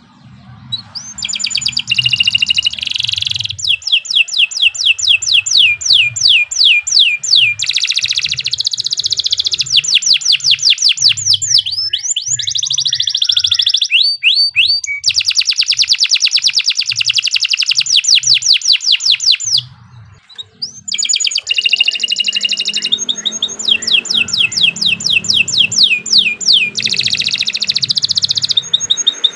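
Domestic canary singing a long, continuous song of fast trills and rolls: rapid runs of repeated rising notes, with a brief pause about twenty seconds in.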